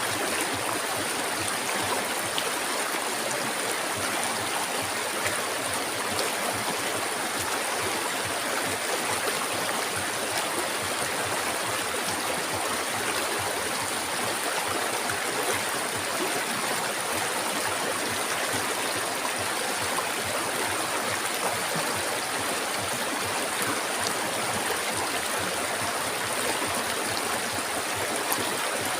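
Flowing river water rushing steadily and evenly.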